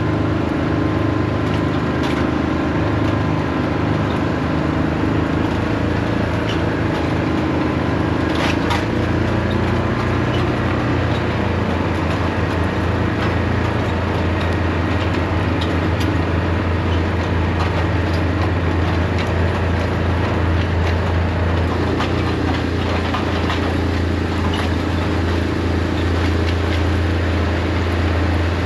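Diesel tractor engine running steadily under load while pulling an anhydrous ammonia toolbar, a deep even hum with a few faint clicks.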